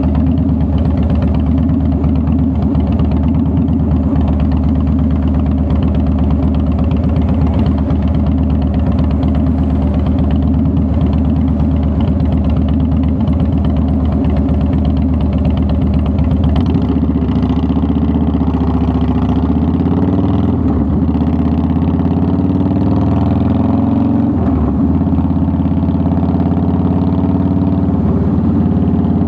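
2009 Harley-Davidson Softail Deluxe's air-cooled V-twin engine running steadily. Its pitch rises and falls a few times past the middle as the revs change.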